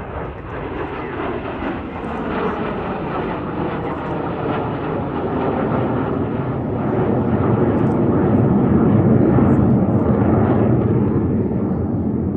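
BAE Hawk jet trainers flying past, the steady noise of their Adour turbofan engines building to its loudest about two-thirds of the way through, then easing off.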